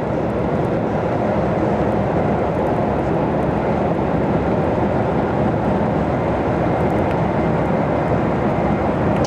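A heavy vehicle on the move: steady, loud engine and road noise that swells slightly at the start and cuts off abruptly at the end.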